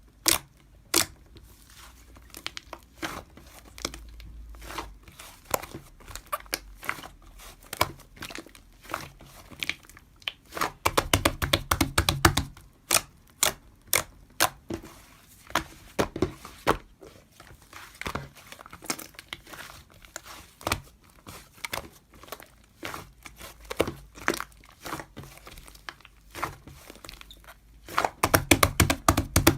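Slime being squished and pressed by hand: an irregular stream of sticky clicks and crackly pops, with denser runs of pops about eleven seconds in and near the end.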